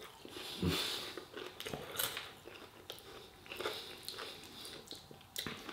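A person biting and chewing crisp toasted garlic bread close to the microphone: soft, irregular crunches, with a couple of slightly louder bites in the first two seconds.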